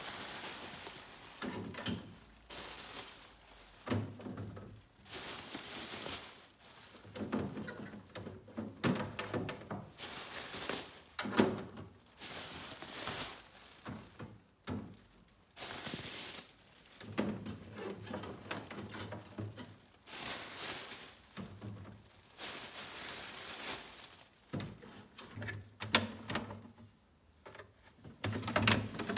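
Household handling noises: irregular rustles, knocks and thuds as things are moved about, with short clicks between.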